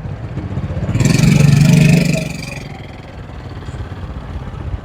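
A motor vehicle's engine passing close by in street traffic: it swells about a second in and fades away by about two and a half seconds, over a steady low traffic hum.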